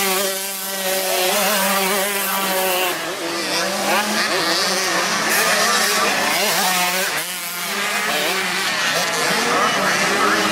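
Several motocross dirt bike engines revving at once, their pitch rising and falling with the throttle, with brief dips in loudness as the engines back off near the start and again about seven seconds in.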